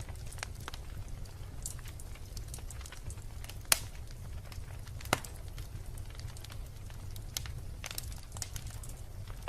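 Wood logs burning in a fireplace, crackling steadily with scattered small ticks and two louder pops about three and a half and five seconds in, over a low steady rumble of the flames.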